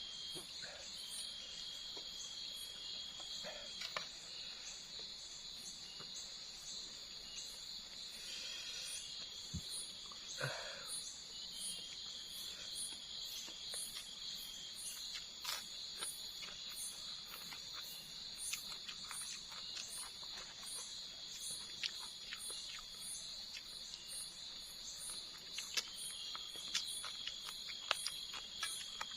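Forest insects chirring steadily in a high, unbroken drone over a fast, even, higher-pitched pulsing, with scattered small clicks and knocks close by.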